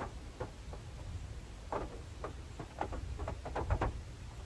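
Scattered raindrops tapping on the roof of a Suzuki Jimny, heard from inside the cabin: light rain just starting, a few irregular taps a second over a low steady rumble.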